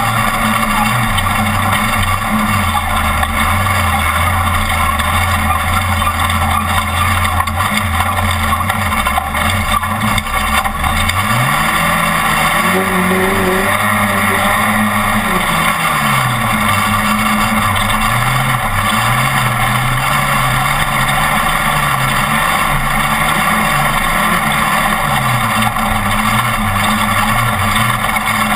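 Off-road race truck's engine running at speed under a constant loud rush of wind and road noise. It runs low and steady at first, climbs sharply in revs about eleven seconds in, holds high for a few seconds, drops back around sixteen seconds, then rises and falls a little.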